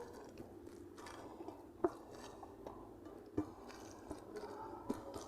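A person chewing food, with close mouth sounds, and three sharp clicks or crunches spaced about a second and a half apart, plus a few fainter ones.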